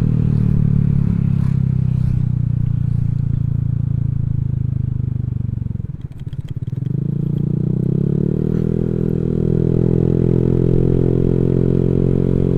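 Honda Vario 150 scooter's single-cylinder engine running through an aftermarket Black Devil R2 Seca exhaust while being ridden: a steady drone that drops away about halfway through as the throttle is eased off, then builds back up and holds steady.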